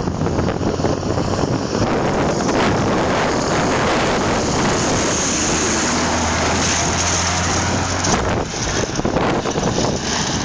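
Scania R500 V8 truck engine running, its low drone mixed with heavy wind noise on the microphone. The drone drops away about eight seconds in.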